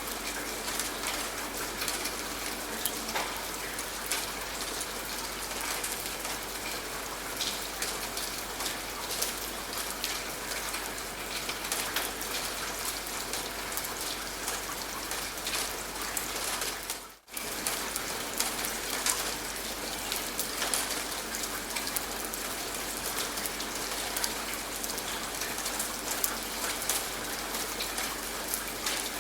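Steady rain with many close drops pattering on a surface. About seventeen seconds in, the sound dips out for a moment and comes straight back.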